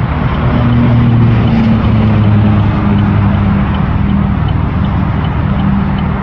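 Highway vehicle noise: a steady low rumble of tyres and engine, with a low engine drone that is strongest from about half a second in until about four and a half seconds. A faint, regular ticking runs underneath.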